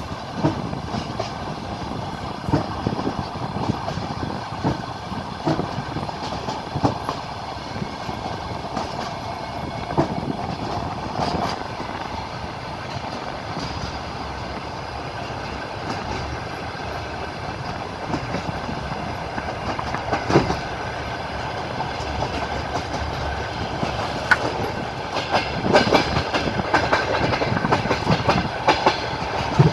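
Wheels of a moving passenger train running over the rails, heard aboard: a steady rumble with the clickety-clack of wheels knocking over rail joints, the knocks coming in a tighter cluster near the end.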